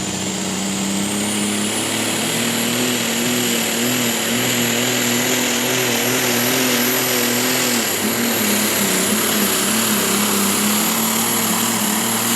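A pulling tractor's engine running flat out during a pull, with a high whine that climbs over the first couple of seconds and then holds. The engine note wavers up and down in the last few seconds, then drops away abruptly at the end of the run.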